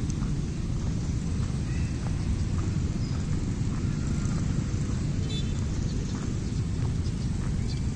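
A large flock of feral pigeons: a steady low rumble of cooing, with scattered faint ticks and chirps over it.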